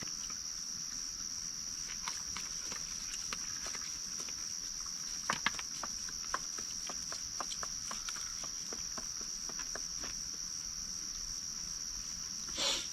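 Crickets chirring in a steady, high-pitched drone, with scattered light clicks and taps in between.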